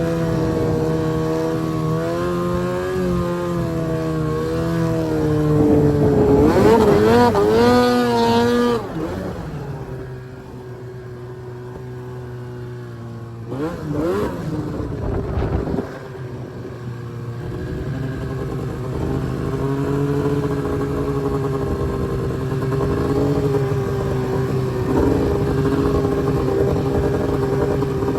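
Arctic Cat M1000 snowmobile's two-stroke twin engine running under the rider. About six seconds in it revs hard with a warbling pitch for a few seconds, then drops to a lower steady note. It revs briefly again about halfway through and settles back to steady running.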